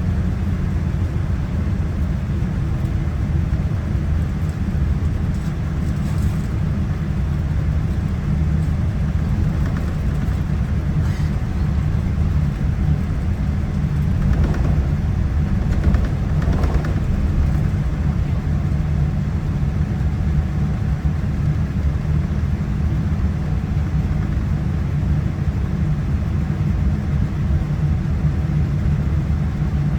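Steady low rumble and hum inside the cabin of a Boeing 787-9 during pushback from the gate, with a few faint brief sounds about halfway through.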